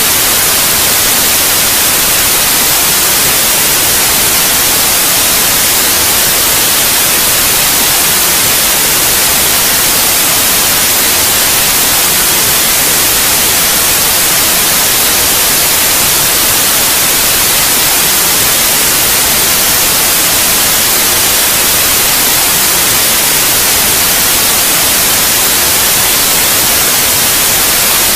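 Steady white noise: a loud, even hiss, brightest in the high pitches, that never changes.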